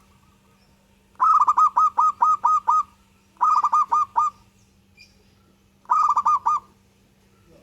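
Zebra dove (perkutut) singing: three phrases of rapid, repeated cooing notes, the first the longest, with a faint steady hum underneath.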